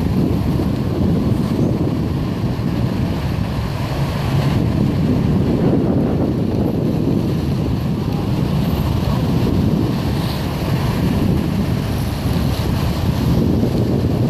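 Wind buffeting the microphone: a steady low rumble with no clear engine note or siren in it.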